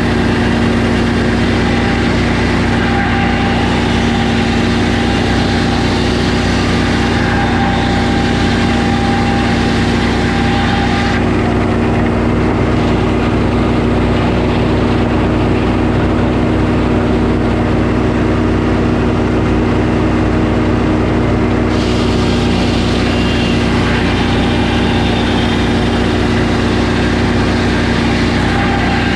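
Sawmill engine running steadily at a constant speed, with a high hiss that drops away for about ten seconds in the middle.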